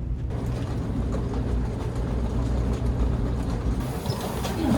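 Steady low rumble of a vehicle, with a noisy hiss joining it about a third of a second in.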